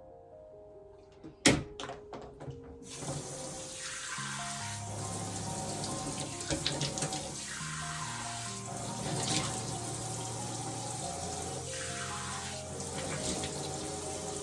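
A single sharp knock, then, about three seconds in, a water tap is turned on and runs steadily into a sink.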